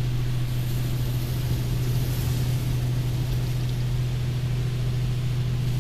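High-pressure rinse water from a LaserWash 4000 touchless car wash spraying over the car, heard from inside the cabin as a steady hiss over a constant low hum.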